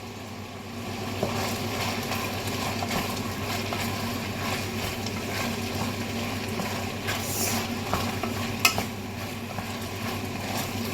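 Chicken and vegetables in sweet and sour sauce sizzling in a hot pan while being stirred, with a few sharp clicks of the utensil against the pan near the end, over a steady low hum.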